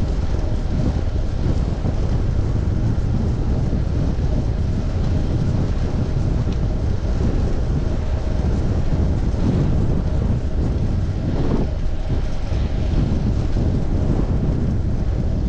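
Steady wind rumble on the microphone of a chest-mounted action camera on a moving bicycle, with road and traffic noise underneath.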